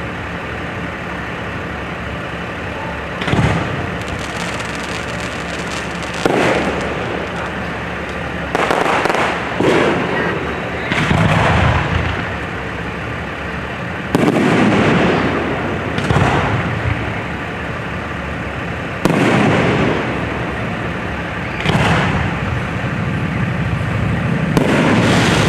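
Fireworks display: aerial shells bursting one after another, about nine sharp bangs every two to three seconds, some with a trailing crackle.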